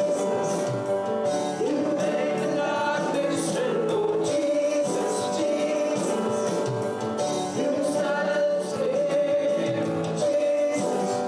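Live church worship music: voices singing over instruments with sustained held chords.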